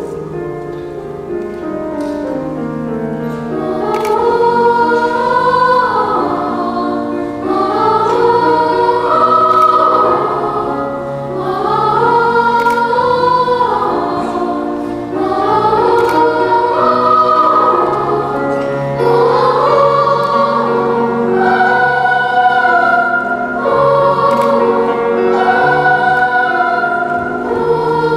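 Children's choir singing a wordless song in several voices, in flowing phrases that rise and fall and begin again every few seconds.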